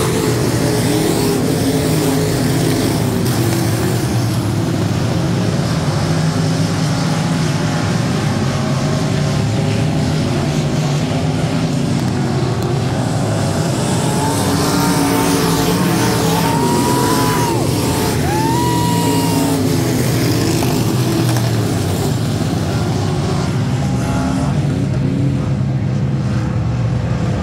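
USRA limited modified race car engines running hard, their pitch rising and falling repeatedly as they rev up and back off.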